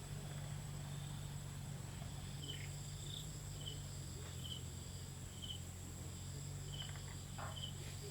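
Crickets and other insects trilling steadily, with short high chirps repeating about once a second from a few seconds in, over a steady low hum.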